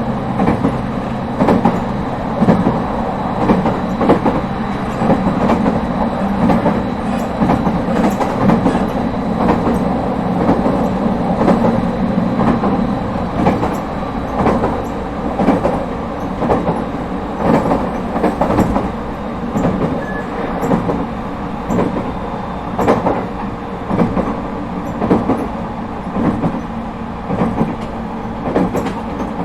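ET127 series electric train, refurbished with Toyo IGBT VVVF equipment, running at a steady speed: a continuous rumble with wheels clacking over rail joints at a regular beat, about once a second.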